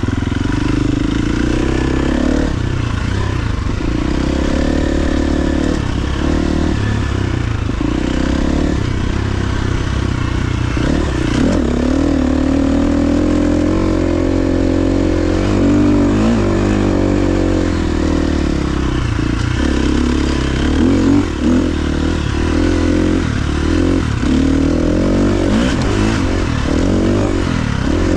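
KTM XC-F 350 single-cylinder four-stroke dirt bike engine being ridden, its pitch rising and falling over and over as the throttle opens and closes.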